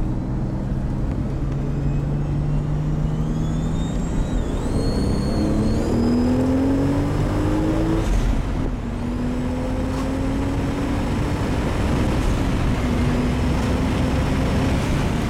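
Toyota Supra MK4's twin-turbo 2JZ-GTE straight-six accelerating hard through the gears. The engine pitch holds steady at first, climbs, drops at a gear change about eight seconds in, then climbs again with another shift near the end.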